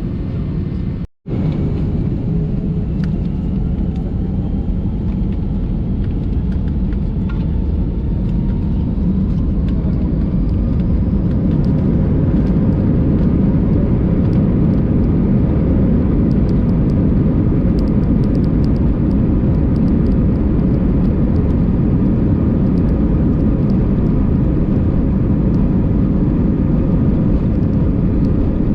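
Cabin noise inside an Airbus A319 as its jet engines spool up for take-off. A rising whine climbs over the first several seconds while the noise grows louder, then it settles into a steady loud rumble. The sound cuts out for an instant about a second in.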